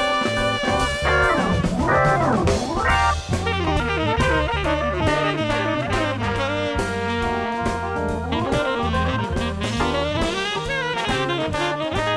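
Jazz music with saxophone and brass over a drum kit, with a swooping run down and back up in pitch about two seconds in.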